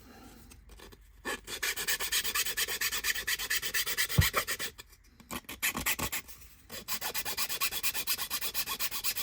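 Quick back-and-forth rubbing strokes on a thin laser-cut wooden kit part as its slots are worked by hand. There are two runs of strokes with a short pause between them, and a single knock about four seconds in.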